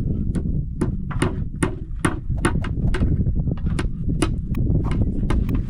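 A quick, somewhat irregular run of sharp clicks or knocks, about two or three a second, over a steady low rumble.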